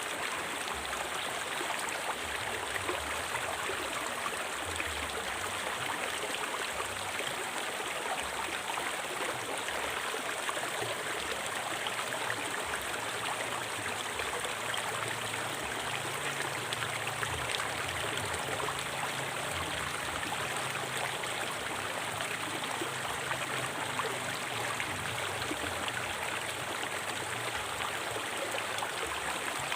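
A river flowing steadily over rocks: a constant rush of water with small splashes and gurgles in it.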